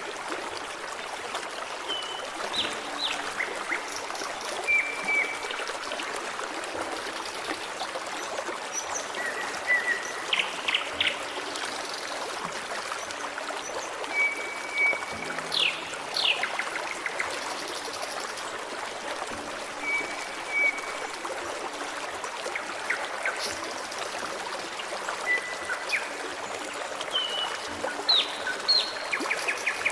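Forest stream running and trickling steadily, with birds singing over it: short clear whistled notes and quick downward-sweeping calls every few seconds.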